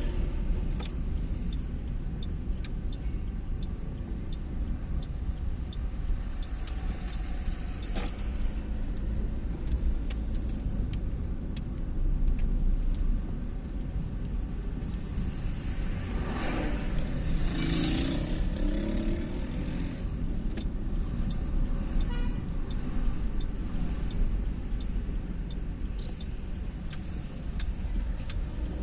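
A car driving, with steady low road and engine rumble. There is a row of light, evenly spaced ticks in the first quarter, and a louder passing swell of noise a little past halfway.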